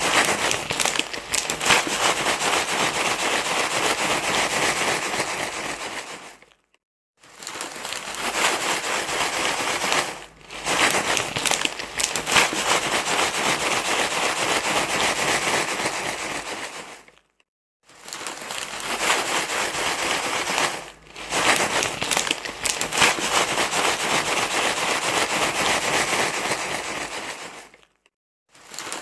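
A dense crinkling, rustling sound, the kind played to calm crying babies. It comes in stretches of several seconds broken by short breaks, repeating as a loop about every eleven seconds.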